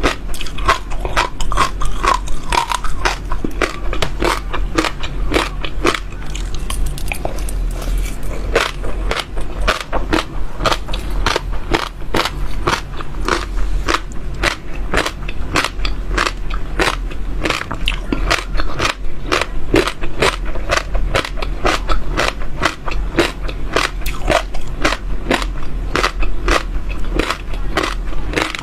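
Close-miked chewing: seeds being crunched and cracked between the teeth, a steady run of sharp crackly bites several times a second.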